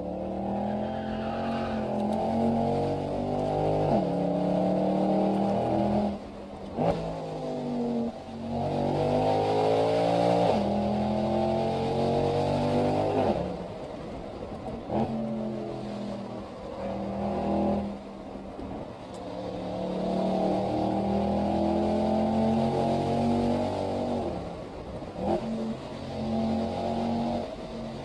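Mercedes-Benz SL63 AMG's V8 heard from inside the cabin, pulling hard through the gears. The engine note climbs and drops sharply at each upshift, many times over, with a lower, easier stretch in the middle.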